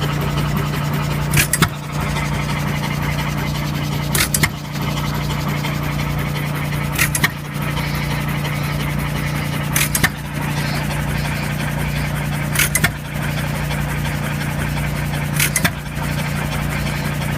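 John Deere hit-and-miss gas engine running. It fires with a sharp bang about every three seconds, six times, and coasts between firings. A steady low hum runs underneath.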